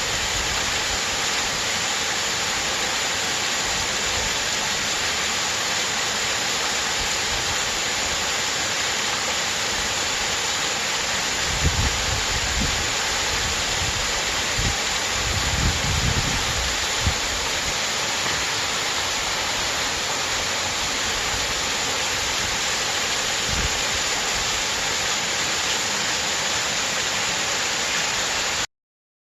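Mountain-valley stream water rushing over small waterfalls into pools: a steady, full rush of falling water, with a few brief low rumbles a dozen seconds in. It cuts off suddenly near the end.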